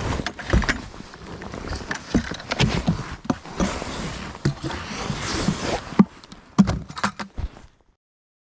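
Irregular footsteps with scuffs and knocks, stopping abruptly near the end.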